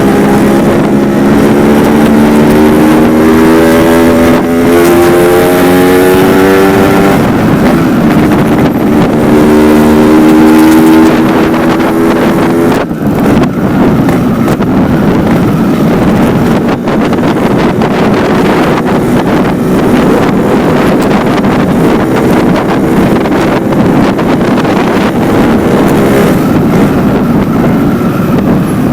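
Yamaha RX-King's two-stroke single-cylinder exhaust, through the stock silencer with only its main baffle left in. The engine note climbs steadily twice in the first dozen seconds, as if pulling through a gear and then the next. It dips briefly, then runs on at a steadier pitch.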